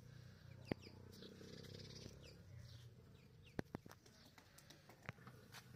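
Near silence with faint, short bird chirps in the background and a few sharp clicks.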